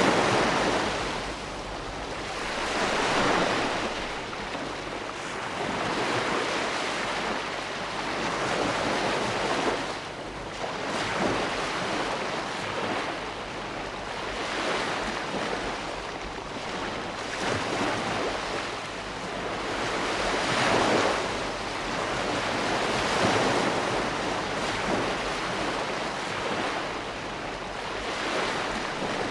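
Ocean waves breaking and washing ashore in a steady series, the surf swelling and easing about every two to three seconds.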